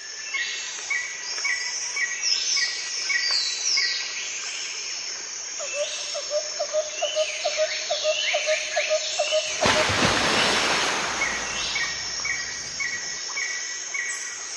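Several birds calling: repeated short chirps and quick falling whistles, with a run of lower notes at about three a second in the middle. A short burst of rushing noise comes about ten seconds in.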